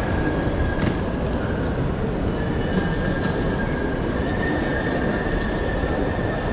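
A train running through the station, a loud steady rumble with a thin high-pitched squeal above it.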